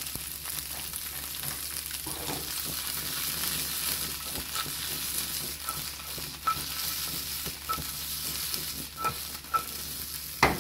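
Green beans and sweet pepper sizzling in olive oil in a skillet, with a steady frying hiss. The pan is tossed, giving scattered light clicks from about halfway, and a sharper knock near the end.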